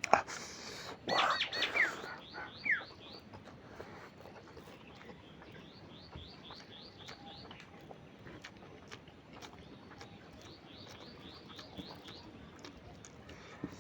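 Birds chirping: a few loud, quickly falling calls in the first three seconds, then a long run of short chirps repeated about three times a second.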